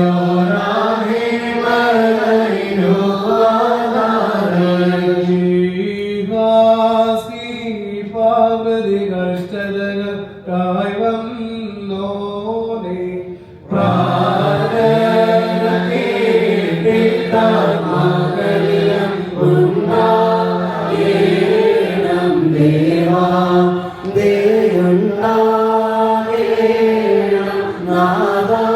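Orthodox liturgical chant: voices singing a slow hymn melody in unison, with an abrupt break about halfway through.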